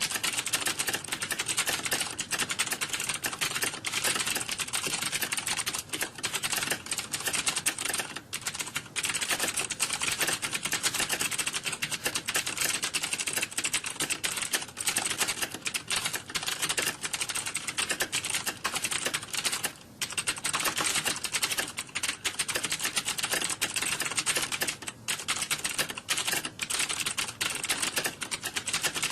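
Computer keyboard typing, fast and continuous, with key clicks running close together and a short pause about 20 seconds in.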